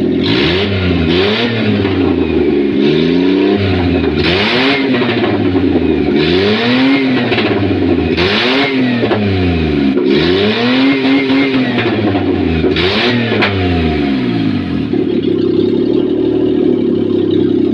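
Maruti Suzuki Omni's 796 cc three-cylinder petrol engine, running with the silencer disconnected at the exhaust manifold. It is revved up and down about seven times, then settles to a steady idle near the end. It revs freely without vibration, which shows the fault is a broken, blocked catalytic converter inside the silencer choking the exhaust.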